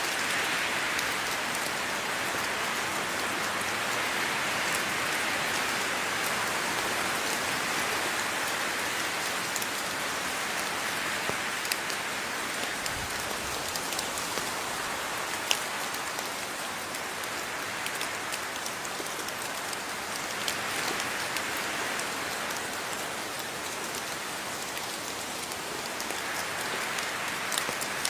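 Steady rainfall: an even hiss of rain with many small drop ticks, swelling and easing slightly every few seconds.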